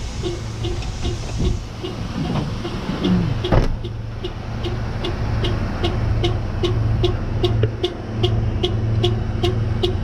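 Truck engine idling with a regular ticking about twice a second, like a turn-signal or hazard-flasher relay. A hiss of air dies away about a second and a half in, and there is a single sharp knock a couple of seconds later.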